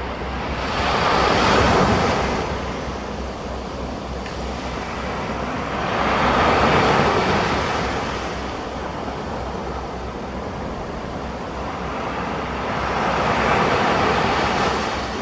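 Ocean waves breaking on a beach: three slow surges of surf, each rising and falling over a few seconds, over a steady low rumble.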